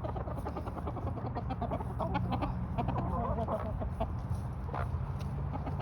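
Backyard hens clucking, a stream of short, rapid clucks over a steady low rumble.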